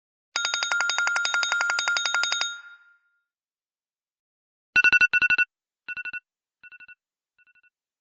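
iPhone ringtones playing: a rapid electronic trilling ring for about two seconds that fades away, then, after a pause, a quick beeping figure that repeats several times, each repeat fainter, like an echo dying out.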